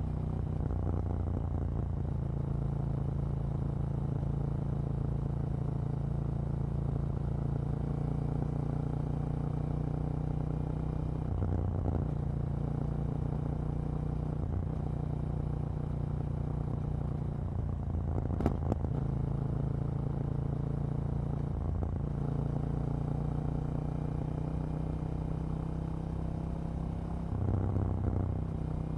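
KTM 790 Duke's parallel-twin engine running at fairly steady revs under way, its note shifting briefly a few times. One sharp crack about two-thirds of the way through stands out as the loudest moment.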